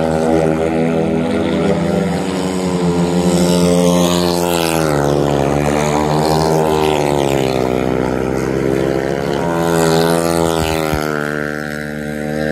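Speedway bike's single-cylinder engine running hard as it laps a dirt oval, its note falling and rising again a few times, with a marked drop about four to five seconds in and another near nine seconds.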